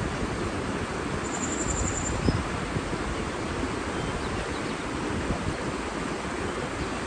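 Steady rushing water noise, with a short high trill a little over a second in and a few faint chirps later.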